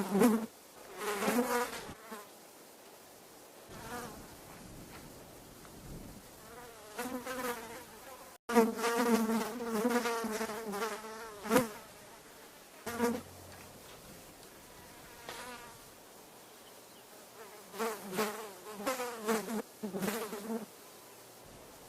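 Flies buzzing, the wavering hum swelling and fading as they pass close, in several passes; the longest and loudest comes about halfway through, with a brief sudden dropout just before it.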